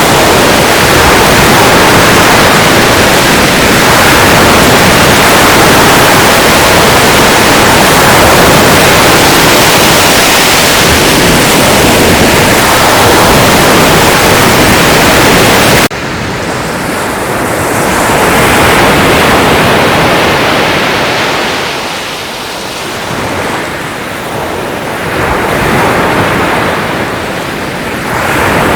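Sea surf: a dense, steady rush of breaking waves that cuts abruptly, a little over halfway through, to quieter waves swelling and ebbing every few seconds.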